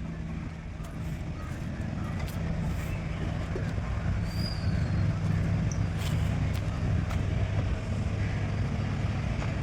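Car engine running as the car drives, a steady low hum over road noise that grows slowly louder.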